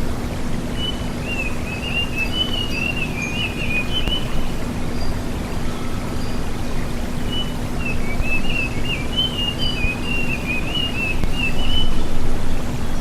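Sulingan gunung (tledekan gunung) songbird singing rapid, twittering, whistled phrases in two bouts, the second starting about six and a half seconds in, over a loud steady rushing background with a constant low hum.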